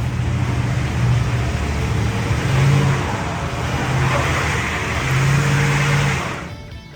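A motor vehicle engine running hard under load, its pitch rising and falling, with a rushing noise over it; it drops off suddenly near the end.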